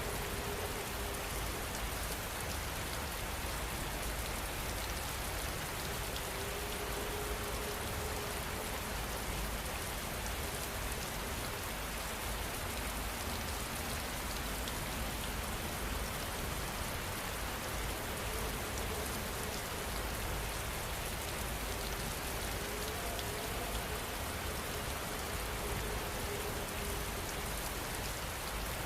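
Steady rain falling, a constant even hiss of dense drops that does not rise or fall.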